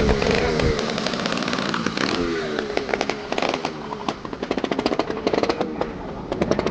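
An engine running with a rapid, popping pulse from its exhaust, over the chatter of people around it.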